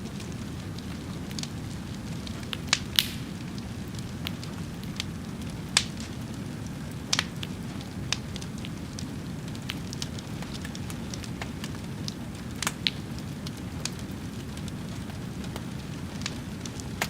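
Fire burning with a steady low roar and irregular crackles and sharp pops, a few louder snaps about 3, 6 and 7 seconds in.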